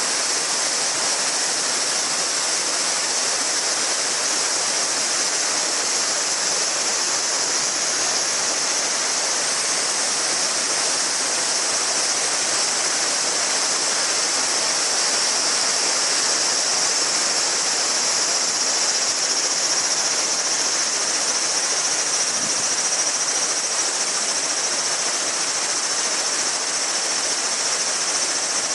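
A shallow river murmuring steadily over stones, with a dense chorus of summer cicadas buzzing high above the water sound.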